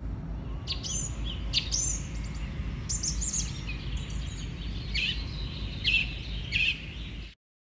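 Birds chirping: a string of short, high calls, some rising and falling, over a steady low rumble. The sound cuts off suddenly near the end.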